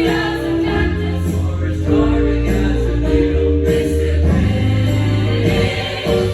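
A choir singing a holiday song with instrumental accompaniment and a steady bass line underneath.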